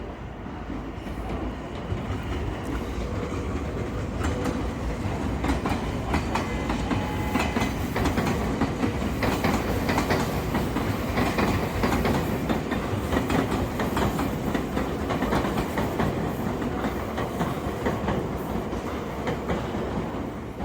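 315 series electric multiple-unit train running on the rails, its wheels clacking over rail joints; the running noise swells about four seconds in and eases slightly near the end.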